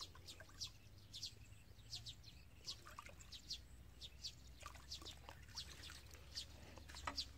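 Small birds chirping, short high chirps repeated a few times a second, faint, over a low steady hum.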